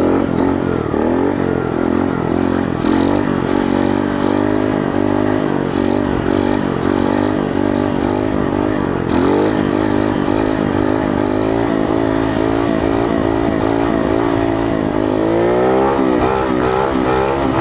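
Coolster 125 pit bike's single-cylinder four-stroke engine revving up and down under uneven throttle as it is ridden in wheelies, its pitch wavering and climbing steeply near the end.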